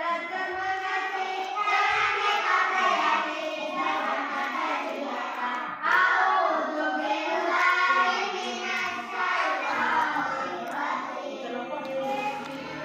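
Several children's voices singing and chattering together, overlapping with no pauses.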